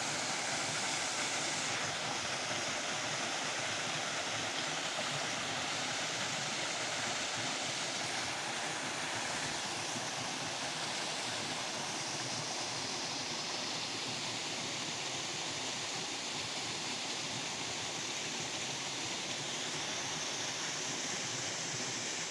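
Waterfall: water pouring and rushing as a steady, even hiss with no breaks.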